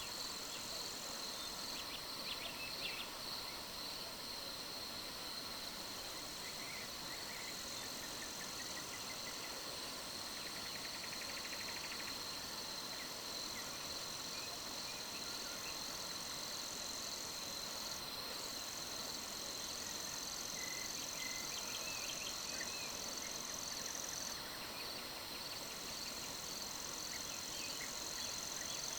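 Summer night ambience of insects, crickets among them, chirring steadily at a high pitch with a fast even pulse. A few short, faint bird calls come in now and then.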